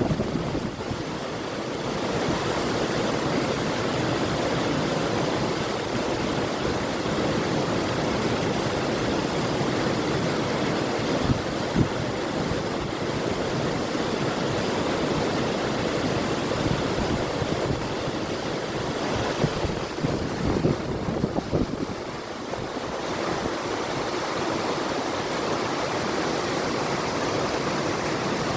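A river flowing, a steady rush of water, with brief louder splashes about 11 to 12 seconds in and again around 20 seconds.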